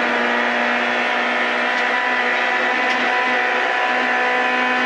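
Rally car engine held at steady revs under full throttle along a straight, heard from inside the cockpit.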